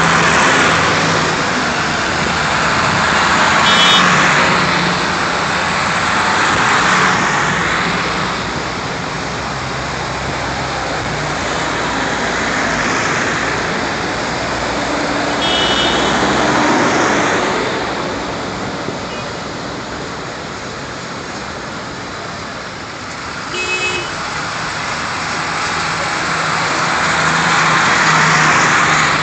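Vintage tractors driving past one after another, the engine and road noise swelling and fading as each goes by, with a few short high-pitched toots.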